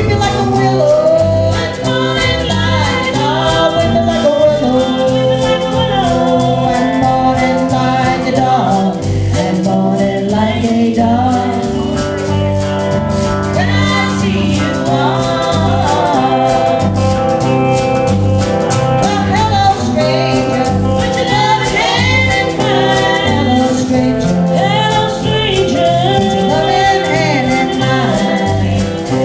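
Live band music with several voices singing together in harmony over a steady bass beat.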